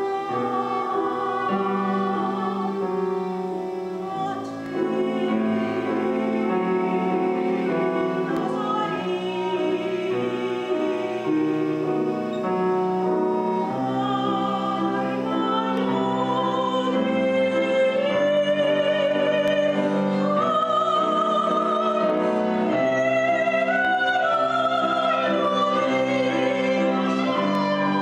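Concert recording of a classical vocal piece: a singer with strong vibrato over instrumental accompaniment, with piano and bowed strings. The singing grows stronger about halfway through.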